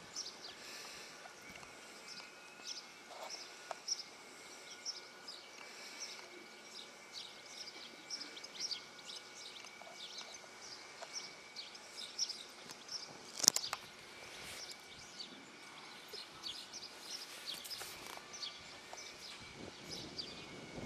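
Small birds chirping in short, repeated high notes over a faint steady outdoor background, with one sharp click about two-thirds of the way through.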